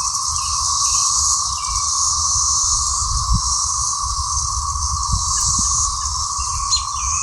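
Cicadas droning in a continuous chorus: a steady high buzz with a lower steady tone beneath it, unbroken throughout.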